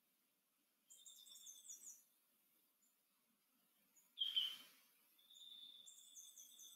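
Small birds calling: a high, fast chirping trill that lasts about a second, comes again near the end, and a short, sharper, louder call about four seconds in.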